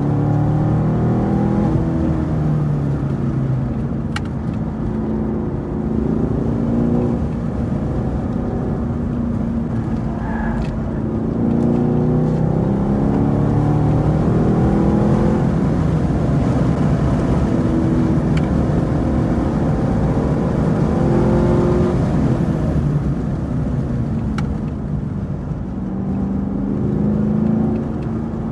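A high-performance car engine running hard on a race track, its pitch climbing repeatedly as it accelerates and dropping back at shifts and braking.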